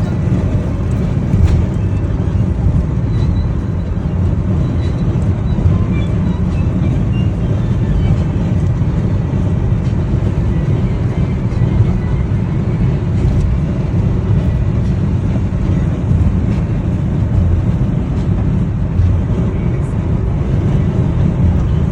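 Heavy rain falling, heard as a loud, steady wash with a strong low rumble.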